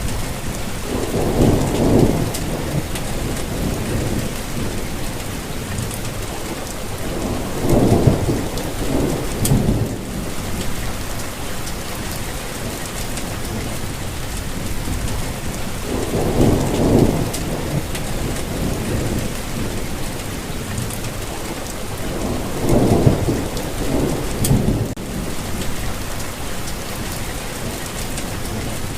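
Steady rain hissing, with four low rolls of thunder swelling up and dying away, each a few seconds long, spaced about six to eight seconds apart.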